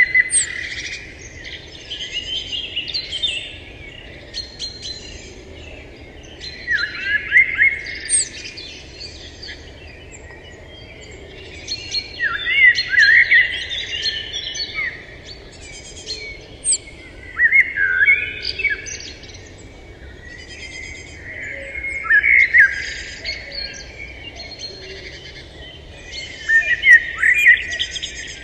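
Songbird singing in short bursts of rapid chirps and sweeping whistled notes, one phrase about every five seconds.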